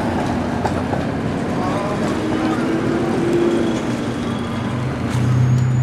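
A small park train's open passenger cars rolling past with a steady rumble, the riders' voices mixed in. A low steady hum comes in about five seconds in.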